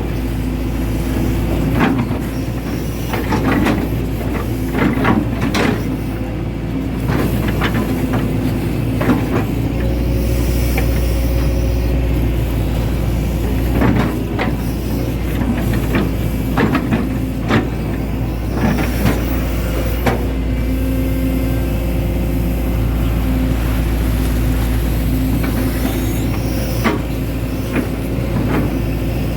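Hitachi Zaxis 110 hydraulic excavator's diesel engine running steadily under load, with scattered knocks and clanks from the working machine.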